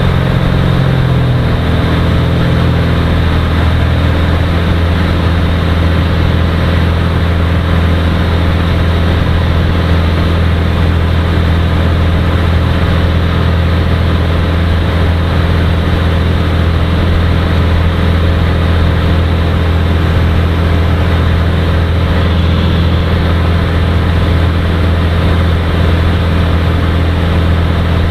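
Cirrus SR20's piston engine and propeller heard from the cockpit: a steady, loud drone with a deep hum, its pitch lines shifting slightly about a second in.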